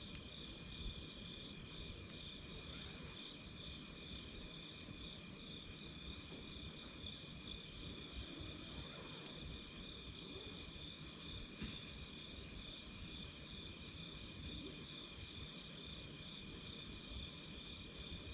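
Insects chirping in a steady, pulsing trill over a low rumble, with a few faint crackling pops from a wood campfire.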